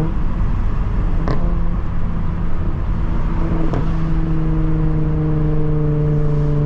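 2025 Honda Civic Type R's 2.0-litre turbocharged four-cylinder engine heard from inside the cabin while driving, running steadily, its note shifting at short breaks about a second in and again near four seconds.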